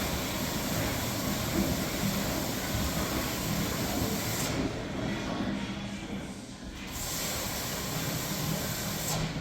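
Electrolux top-load washing machine filling: water sprays into the tub with a steady hiss. The flow dies away for a couple of seconds about halfway through, then resumes.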